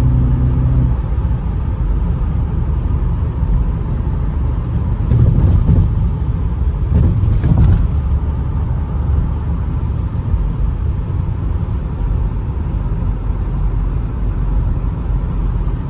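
Audi RS7 Performance's twin-turbo V8 running at highway cruise, a steady low engine and road rumble. A pitched engine tone is heard in the first second, and a few louder, rougher swells come about five to eight seconds in.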